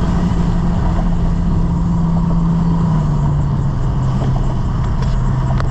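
Straight-piped BMW M5 F10's twin-turbo V8 running under way with a loud, steady exhaust note, which drops in pitch in a few steps during the second half.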